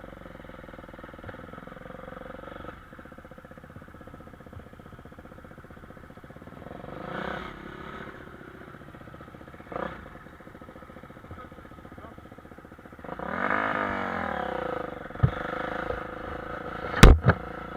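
Motocross bikes' engines running and revving on the track, one passing close about thirteen seconds in, its pitch rising and falling. A few sharp knocks near the end are the loudest sounds.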